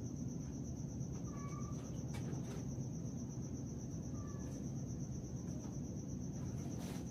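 Night-time insects trilling steadily in a high, rapidly pulsing tone over a low background hum, with two brief faint chirps and a few soft clicks.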